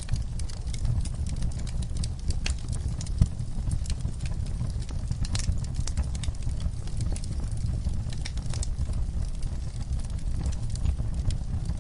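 Wood fire burning: a steady low rumble of flames with frequent crackles and snaps, and one louder pop about three seconds in.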